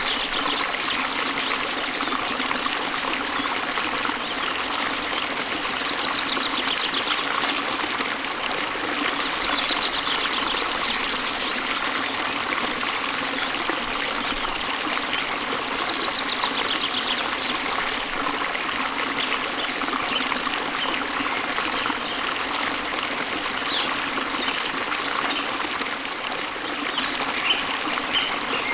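Water from a waterfall and stream flowing steadily. A few short, high bird trills come through faintly now and then.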